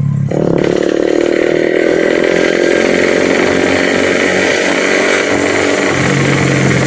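Yamaha RX-King's two-stroke single-cylinder engine, breathing through a hollowed-out (bobokan) exhaust, held at high revs with a buzzy, chainsaw-like note. The revs jump up about a quarter second in and drop back near the end.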